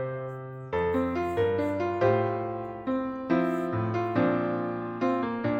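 Instrumental piano accompaniment between sung lines: chords and melody notes struck every half second to a second, each fading away after it is struck.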